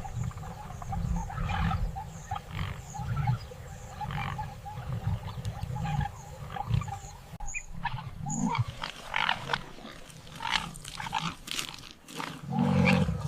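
Hyenas growling and calling during a chase, irregular calls over a low rumble that thins out about halfway through, with a louder growl near the end.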